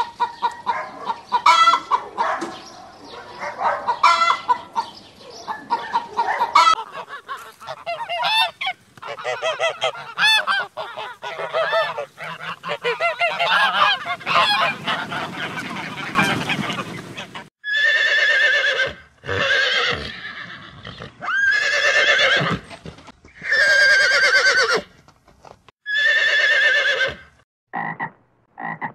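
A run of farmyard bird calls: chickens clucking, then white Pekin ducks quacking, then five long, loud honks. Short frog croaks start near the end.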